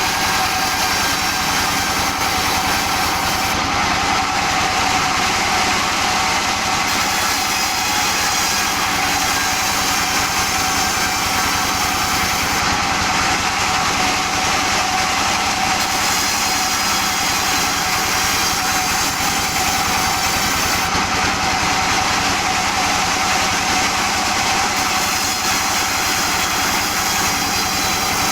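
Sawmill saw running steadily with its engine under a constant load while sawing albasia logs into boards. The high hiss thins out for a few seconds three times.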